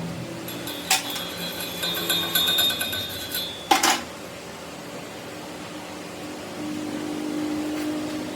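Two sharp metal knocks about three seconds apart, with high metallic ringing between them, then a steady low machine hum.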